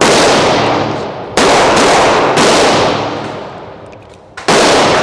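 Smith & Wesson M&P 2.0 9mm pistol with a forced-reset trigger fired in three quick bursts of rapid shots, one at the start, one about a second and a half in, and one near the end, each ringing down between bursts.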